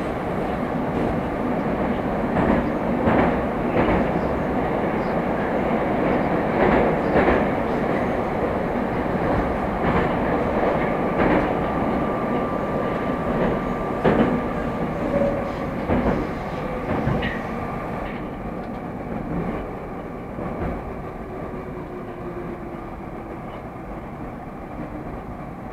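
Moskva-type Moscow Metro electric train running along the track, its wheels knocking over the rail joints. In the last third it grows quieter and duller as it slows on the approach to the next station.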